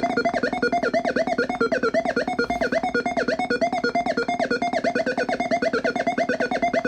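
Videodrone oscillator noise box playing a steady electronic drone. Over it runs a warbling, looping pitched pattern that pulses about five times a second.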